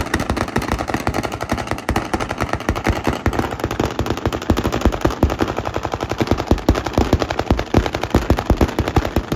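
A long, rapid, irregular run of loud sharp cracks and pops, many per second, without a break.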